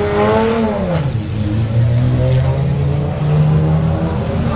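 Race car engine at low speed: the revs drop sharply about a second in, then it runs low and fairly steady, with the pitch creeping up a little later on.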